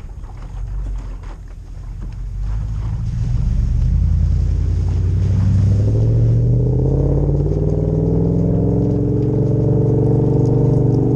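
Toyota 2UZ-FE 4.7-litre V8 with a full exhaust pulling hard. Its low rumble starts quieter among scattered clicks and rattles, swells and rises in pitch from about four seconds in, then holds steady and loud.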